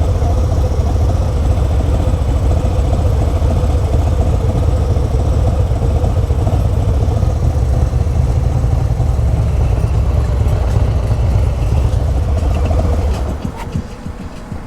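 Harley-Davidson Road Glide's Milwaukee-Eight V-twin, Stage II with an S&S 475 cam and Reinhart headers with 4-inch slip-ons, idling steadily at a standstill. It stops about a second before the end.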